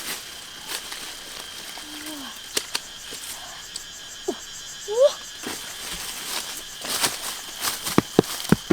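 Outdoor ambience with a steady insect drone, scattered clicks and taps, and a few short calls that bend in pitch.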